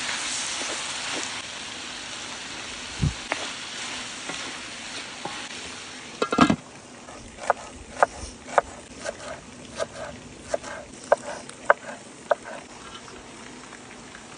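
Food sizzling as it fries in a pan, a steady hiss that fades after about six seconds. Then a loud knock, followed by a run of sharp knocks about two a second.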